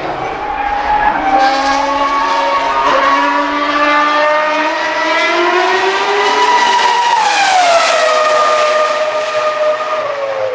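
The 3.0-litre Cosworth CR-6 V10 of a 2004 Jaguar R5 Formula 1 car at high revs: its high-pitched note climbs steadily for about seven seconds, then falls away over about a second and runs on at a lower pitch.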